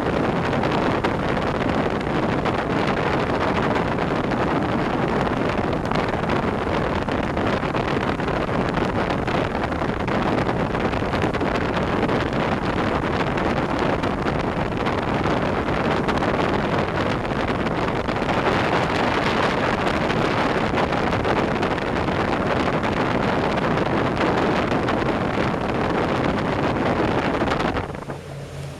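A boat under way: a steady rush of wind buffeting the microphone, mixed with engine and water noise. About a second before the end it drops abruptly to a quieter, low steady hum.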